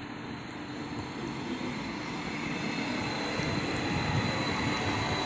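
Thurbo Stadler GTW electric regional train running past at close range, its rolling noise and a steady low hum growing louder as it comes alongside.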